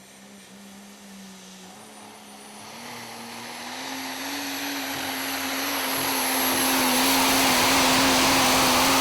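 Super stock diesel pulling truck running at full power, its engine note rising slightly in pitch under a thin high whistle, the whole sound growing steadily louder.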